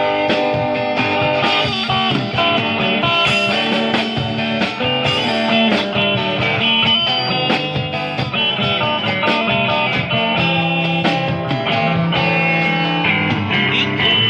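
Live band playing an instrumental break between sung verses, with guitar to the fore.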